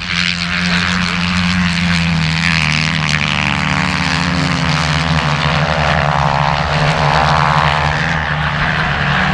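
Motocross bike engines running flat out at a steady high pitch, wide open on a flat track.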